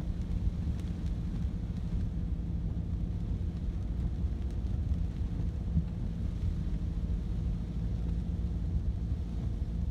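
Steady low rumble with a faint, even hum running through it.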